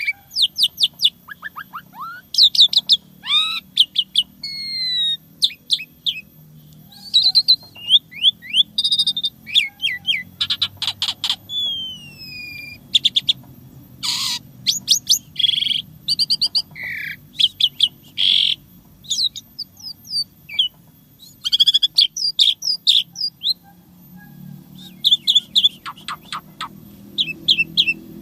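Asian pied starling singing a long, varied song: quick chirps, rapid trills, clear whistles and long falling glides, one phrase after another with brief pauses.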